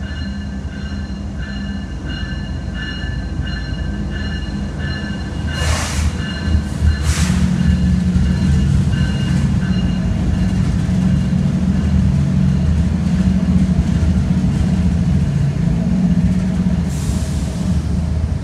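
CSX freight train's diesel locomotives running past close below, a deep engine rumble that grows louder about six seconds in as they pass beneath, followed by the freight cars rolling by. A repeating high ringing comes through the first few seconds, and short hissing bursts come a few times.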